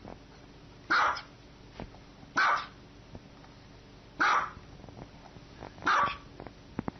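Dog barking: four single barks, evenly spaced about one every one and a half to two seconds.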